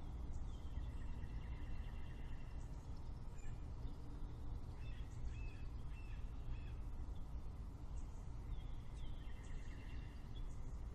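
Small birds chirping and calling in several short spells over a steady low background rumble, outdoors in a spring morning soundscape.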